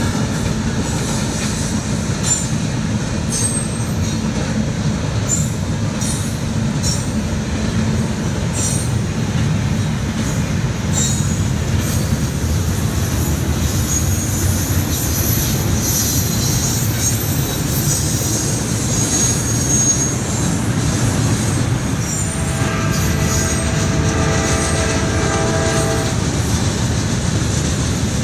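Train rolling past on the Norfolk Southern line: a steady rumble of wheels on rail with clicks over the joints and high-pitched wheel squeal in the middle. A horn sounds for about three seconds near the end.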